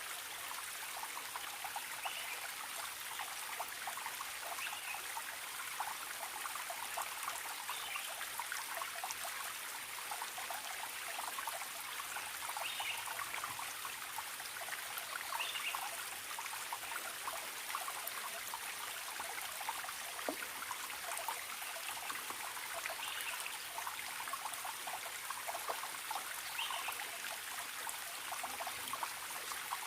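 Forest stream trickling and splashing steadily, with a faint short bird call every few seconds.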